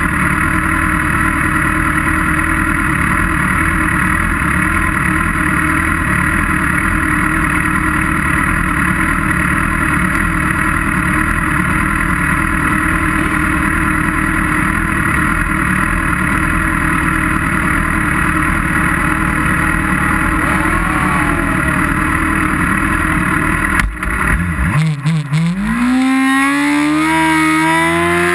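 Sportbike engines idling steadily on a race starting grid. About three-quarters of the way in, the nearest engine's revs climb and are held high, as riders do while waiting for the start.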